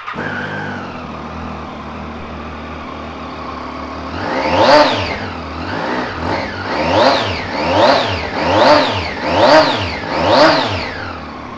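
Triumph Street Triple 675's three-cylinder engine idling just after being started, then revved in a run of seven quick throttle blips about a second apart, each rising and falling in pitch, before dropping back to idle.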